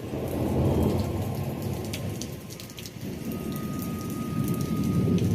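Thunder rumbling over steady rain: the deep rumble comes in at the start, eases about halfway through and builds again near the end, with raindrops clicking on surfaces throughout.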